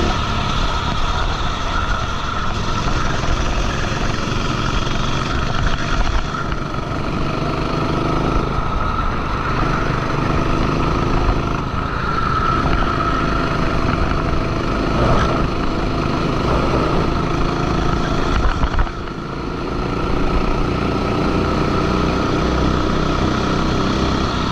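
Go-kart engine heard onboard at racing speed, its pitch rising and falling as the driver accelerates out of corners and lifts off into them. The engine lifts off briefly about 19 s in, then climbs again.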